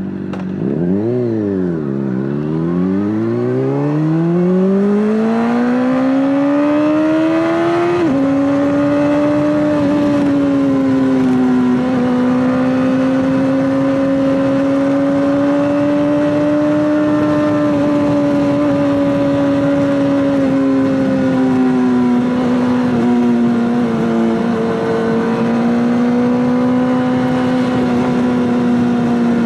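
Honda CBR600RR's inline-four engine through an Akrapovic exhaust under way: the revs dip and climb in the first two seconds, rise steadily for about six seconds, drop suddenly at a gear change, then hold a nearly steady note with small rises and dips.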